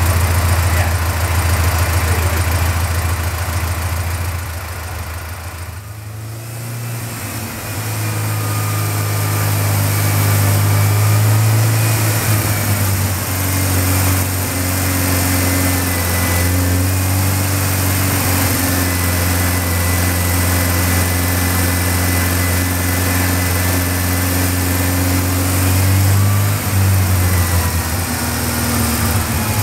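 Supercharged air-cooled VW 1600 flat-four, fitted with an AMR500 supercharger, running at a steady speed on a chassis dyno. It drops quieter about five seconds in, then settles back into a steady drone.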